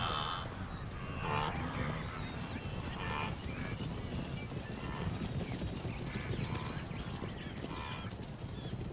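Wildebeest herd running: a steady rumble of many hooves, with short grunting calls about once a second.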